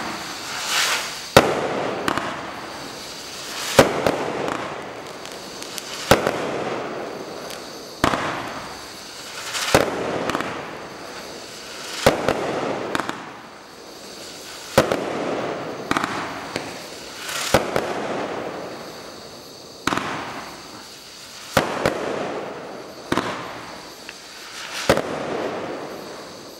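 Bright Star 2393 Tactical Nuke 27-shot barrage cake firing shot after shot: a sharp launch report roughly every two seconds, each followed by a swell of burst noise that fades over about a second as the shell breaks.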